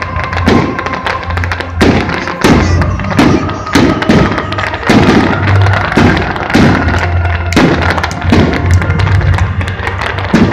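Fireworks display: aerial shells bursting in a steady run of sharp bangs, about one to two a second, with music playing alongside.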